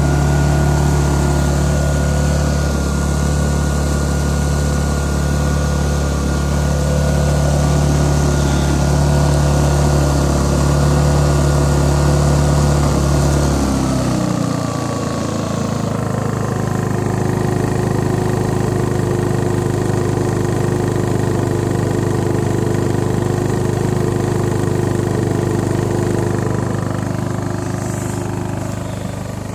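Hyundai 2000si inverter generator's small engine running at a steady speed. About 14 seconds in, the engine speed drops and it settles into a lower, steady hum.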